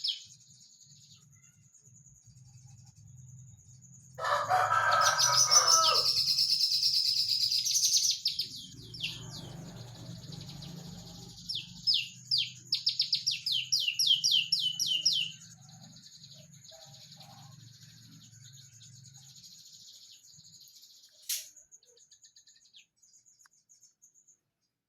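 Prenjak lumut singing rapid-fire bursts of sharp, high chirps. The loudest, densest burst comes about four seconds in and lasts some four seconds, and a second run of quick repeated notes follows around twelve to fifteen seconds. A lower-pitched call overlaps the first burst, and a faint low hum runs underneath.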